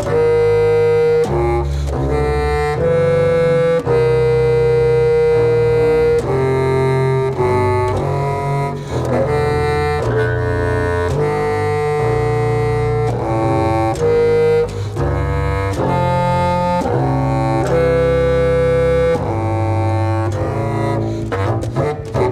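Clarinet and double bass duo playing long held notes, a higher clarinet line over low bass notes, each note changing every second or two. Near the end the sound breaks into a rapid pulsing.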